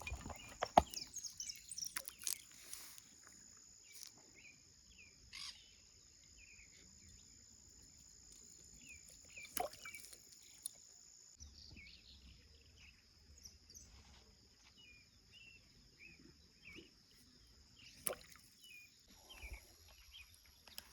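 Faint creekside ambience: a steady high-pitched insect drone with scattered short bird chirps, and a few sharp clicks, one near the start, one about ten seconds in and one near the end.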